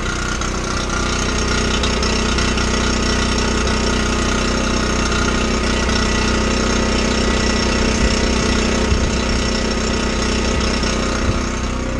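Yamaha 10 hp snowblower engine running steadily.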